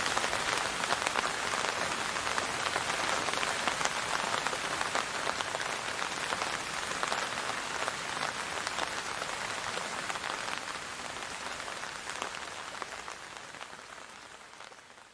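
Steady rain falling on a surface, a dense hiss full of fine drop patters, fading out over the last few seconds.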